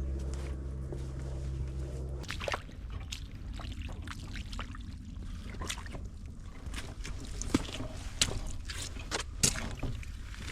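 A steady low engine hum that cuts off about two seconds in. Irregular footsteps follow, knocks and scuffs at an uneven pace with a few louder strikes near the end.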